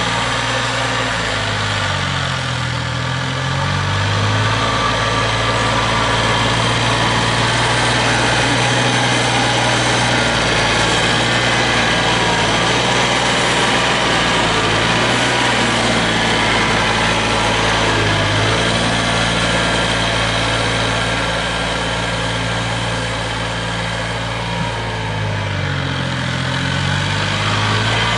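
Tractor engine running steadily under a snow-plowing load, its pitch dipping and coming back up twice, about two seconds in and again near the end.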